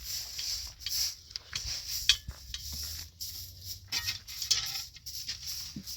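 Irregular clinks and knocks of objects being handled, with one sharp knock about two seconds in.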